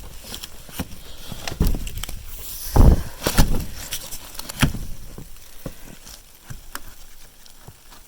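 Irregular crunching and crackling in snow with several dull thumps, the loudest about three seconds in.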